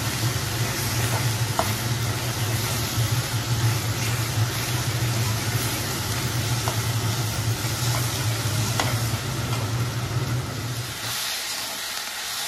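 Sliced onions with ginger-garlic paste and turmeric sizzling in hot oil in a steel kadhai, with a few light scrapes of a steel spoon stirring the pan. A steady low hum runs underneath and stops about eleven seconds in.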